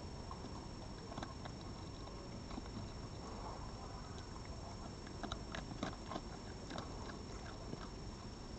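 An animal eating food put out for it: scattered small crunching clicks of chewing, thickest about five to six seconds in, over a steady faint hiss.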